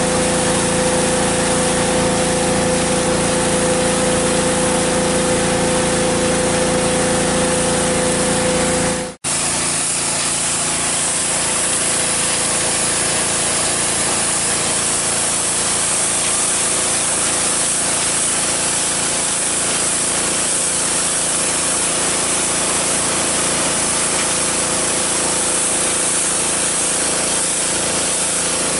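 Husqvarna PW 3200 gas pressure washer, with its Briggs & Stratton engine, running steadily while the water jet sprays with a loud hiss. About nine seconds in, the sound cuts out for an instant and comes back as mostly spray hiss with less engine hum.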